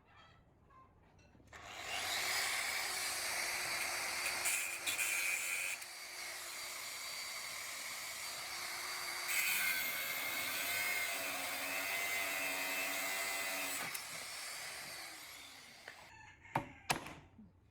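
A handheld power tool running for about fourteen seconds with a high whine, its pitch wavering a little in the second half, then a few sharp knocks near the end.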